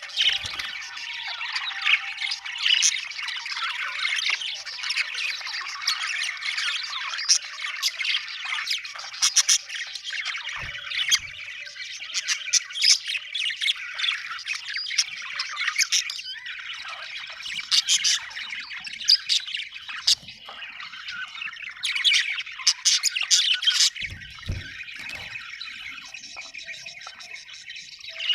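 Budgerigars chattering without pause, a dense warble broken by many short sharp squawks and chirps. Two brief low bumps come through, about ten seconds in and again later on.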